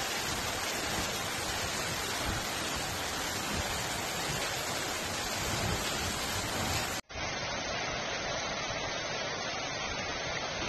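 Steady rushing noise of heavy rain. About seven seconds in it cuts out for an instant and resumes duller.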